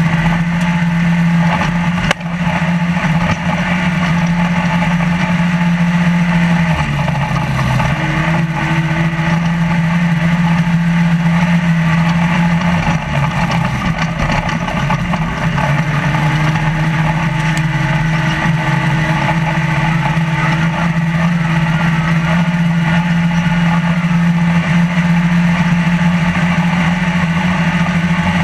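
Trophy Lite desert race truck heard from inside the cab: the engine running hard at steady revs over constant rattling and road noise. The engine note dips briefly twice, about seven and thirteen seconds in, and there is one sharp knock about two seconds in.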